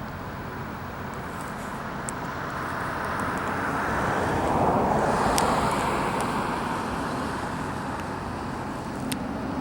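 A road vehicle passing by, its noise swelling to a peak about five seconds in and then fading.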